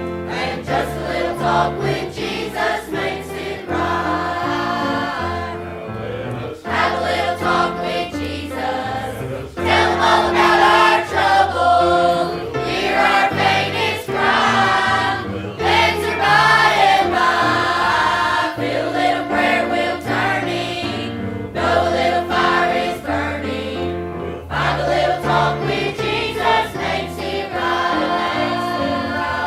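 A church congregation singing a gospel hymn with instrumental accompaniment.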